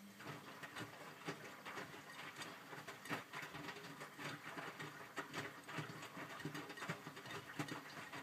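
Miele W562 washing machine drum turning through a tumble early in the main wash, with wet laundry and water splashing and pattering inside. It starts abruptly at the very beginning as a steady run of soft slaps and clicks.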